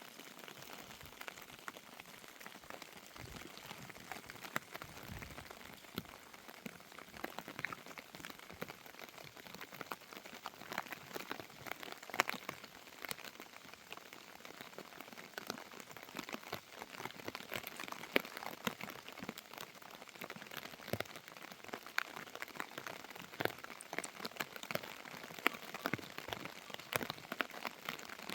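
Rain falling: many separate drop hits over a steady hiss.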